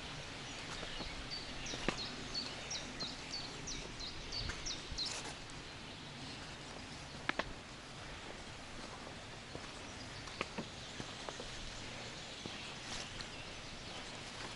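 Forest ambience: a songbird sings a quick run of about a dozen repeated high notes over a few seconds, then stops. Scattered sharp clicks and snaps come through the rest of the time.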